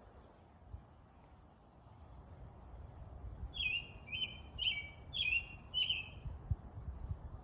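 Wild birds chirping: a faint, high chip repeated about once a second, then from about halfway a louder bird repeating a short call five times in quick succession, each call stepping down in pitch. A low rumble of background noise runs underneath.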